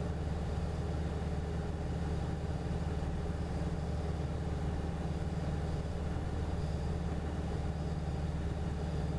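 Steady drone of a Cessna 177RG Cardinal's piston engine and propeller in cruise-descent on approach, heard from inside the cabin.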